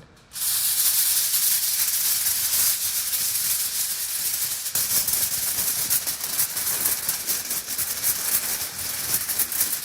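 A sheet of aluminum foil shaken and rattled in the air, a continuous loud crinkling rattle standing in for thunder.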